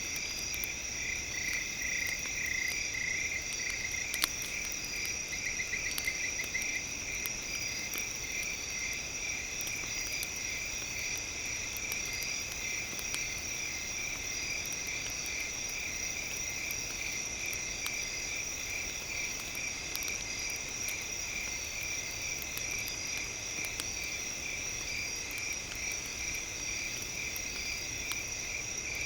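Campfire crackling, with scattered small pops and one louder pop about four seconds in, under a steady high-pitched pulsing trill like a night chorus of insects or frogs.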